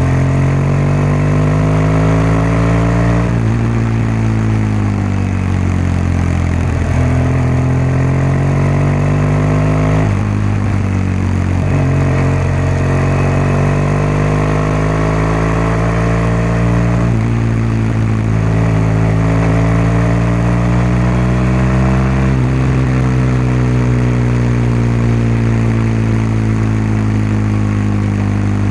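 BMW R1200GS boxer-twin engine and exhaust under way. The engine note glides up and down and changes pitch abruptly about 3, 10, 17 and 22 seconds in.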